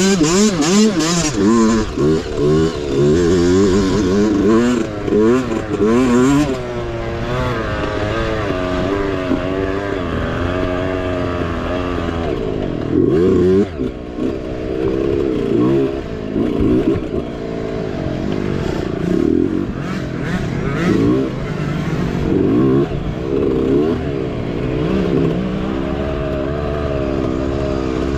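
Mini bike engine racing, its pitch swinging rapidly up and down as the throttle is worked, with a few brief knocks in the first seconds.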